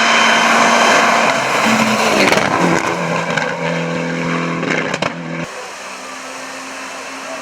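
Rally car at speed with loud road and engine noise, then the engine note settling on a few held pitches with several sharp pops about five seconds in. It cuts off suddenly to a quieter steady hum.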